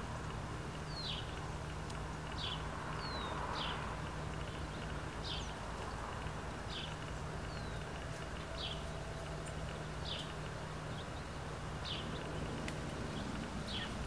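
A bird repeating a short, high, falling call about every second and a half, over a steady low hum.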